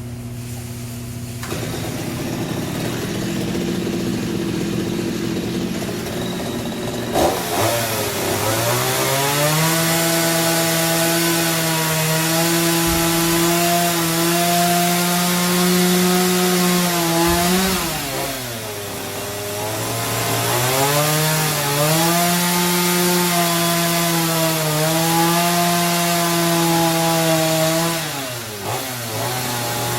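Chainsaw cutting into timber for fan rafters. It runs lower at first, revs up about a quarter of the way in, then holds at high speed, with its pitch sagging briefly twice as it loads up in the cut.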